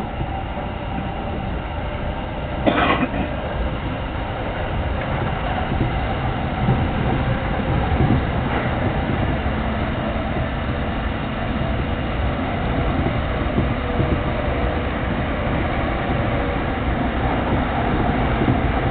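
Running noise of a JR Chuo Line rapid electric commuter train heard from inside a crowded carriage: a steady rumble of wheels on rail with a rattle. A brief louder noise comes about three seconds in.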